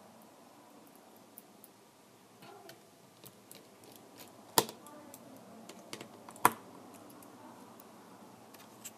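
Small hard clicks and taps from handling tablet parts and repair tools, with two sharp clicks, about two seconds apart, in the middle.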